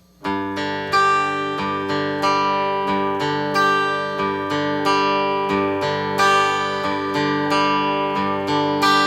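Acoustic guitar playing the instrumental intro of a folk song, struck in an even beat of about one and a half strums a second with the chords ringing on. It starts just after the opening moment.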